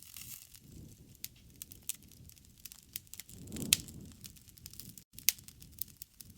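Wood fire crackling, with sharp pops scattered irregularly over a low rumble of the burning fire. The rumble swells a little past the middle, topped by the loudest pop, and the sound cuts out for an instant about five seconds in.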